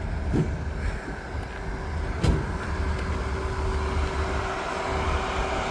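Truck engine running with a low rumble, a steady hum joining in about halfway through.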